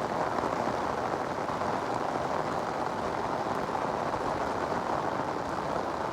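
Steady rushing of water, an even hiss that holds constant throughout.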